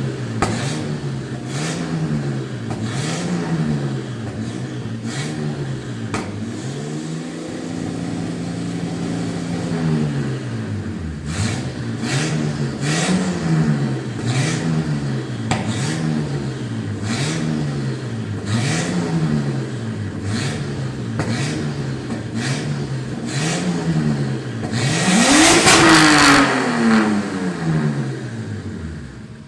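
A drift car's engine being blipped over and over, its revs climbing and dropping about once a second, with sharp exhaust pops at the top of most revs as it throws flames. Near the end comes one longer, higher rev with a loud burst of crackling.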